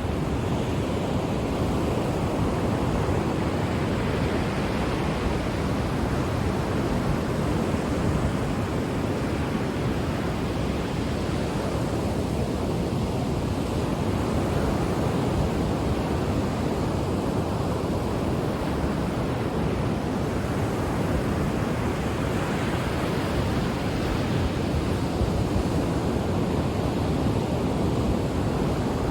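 Ocean surf washing on the shore as a continuous rushing noise, with slow swells as waves break and draw back.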